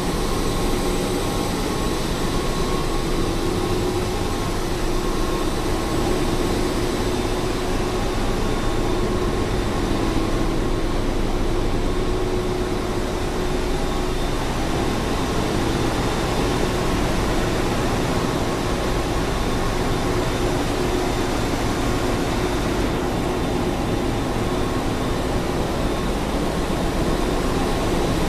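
Steady din of a ship's engine room: engines and machinery running together, a constant dense roar with a few steady whining tones over it.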